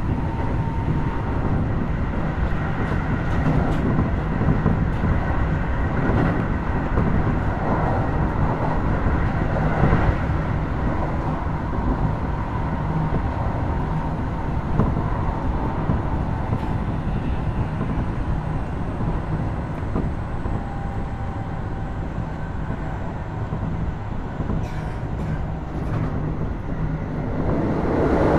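Running sound inside a Keio Series 5000 (2nd generation) motor car: a steady rumble of wheels on rails, with a faint steady whine from the Hitachi IGBT-VVVF traction equipment. Near the end a louder rushing noise sets in suddenly.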